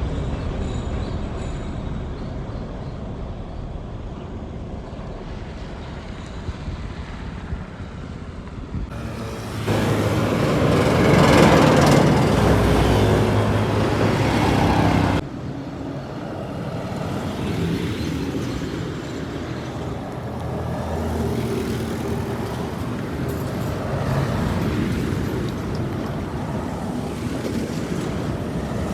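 Heavy trucks running on the road: engine rumble and traffic noise. The sound jumps suddenly louder about nine seconds in and drops off just as suddenly about fifteen seconds in, as one clip cuts to another.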